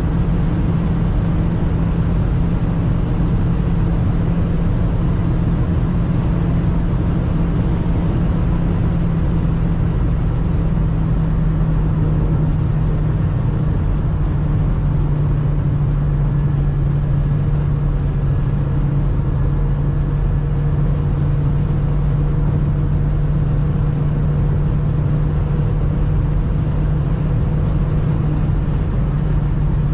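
Cabin sound of a 2002 Skoda Octavia's 1.8-litre turbocharged four-cylinder petrol engine running steadily at high revs at autobahn cruising speed, with road and wind noise. The engine note drops slightly in pitch about halfway through as the revs ease off a little.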